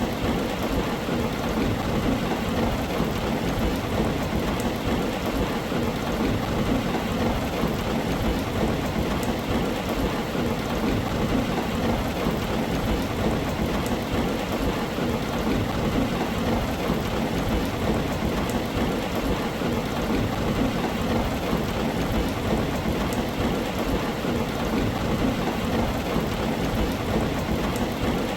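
Heavy rain falling on a tin roof, an even, unbroken patter with a steady low rumble beneath it.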